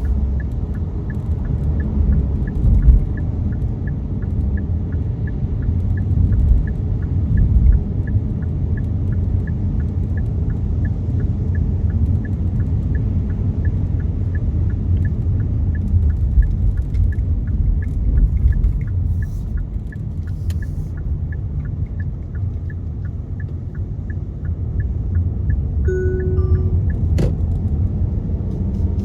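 Steady low road and engine rumble heard inside a moving car's cabin, with a light, even ticking about twice a second. A short beep sounds near the end.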